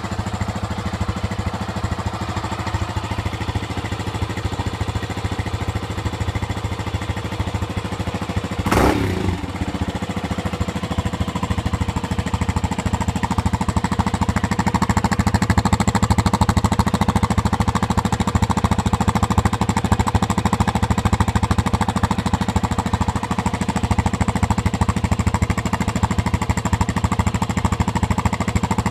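Yamaha Serow 250's single-cylinder four-stroke engine running steadily through a Delta Barrel 4 aftermarket muffler, with a short sharp burst about nine seconds in and a slightly louder running from about twelve seconds on.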